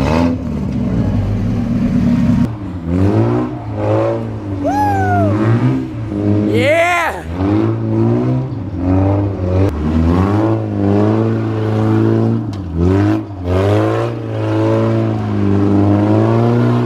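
Car engine revving up and dropping back repeatedly, each rise in pitch followed by a fall, with a shout of 'Yeah!' partway through.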